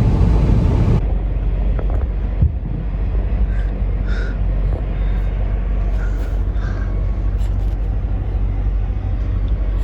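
Steady low rumble of a car heard from inside the cabin, with a few faint brief higher sounds over it.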